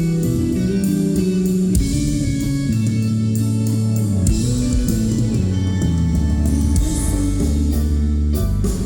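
Live band music: electric guitars over bass guitar and a drum kit, playing an instrumental passage, loud and steady, recorded on a phone.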